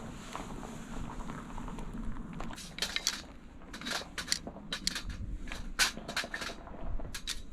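A string of sharp, irregular clicks and clacks over a low background, thickest from about two and a half seconds in until just before the end.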